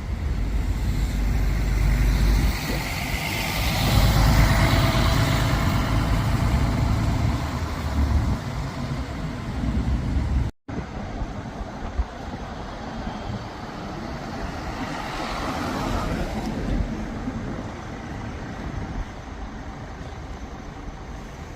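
Buses passing on a city street: the first passes with a deep engine rumble in the first half, and after a brief cut in the sound another vehicle passes more quietly about fifteen seconds in.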